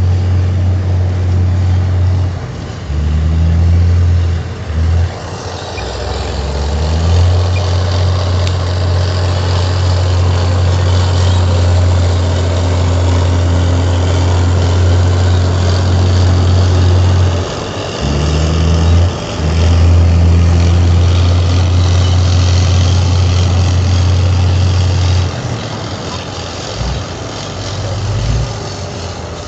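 Komatsu D58 bulldozer's diesel engine running with a deep, steady drone. It shifts in pitch briefly twice as the load changes, then falls quieter near the end.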